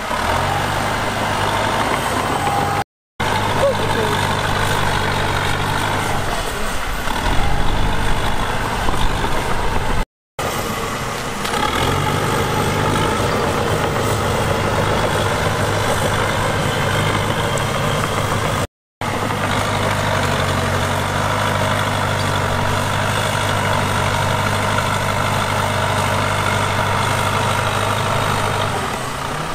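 Diesel engines of heavy earthmoving machinery running steadily, with a louder, rougher stretch under load about a quarter of the way in. The sound drops out completely three times for a split second where the footage is cut.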